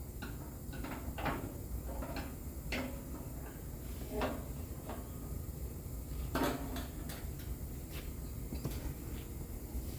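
Irregular knocks and clunks of a car's front fender panel being handled and fitted back onto the body, the loudest about six and a half seconds in.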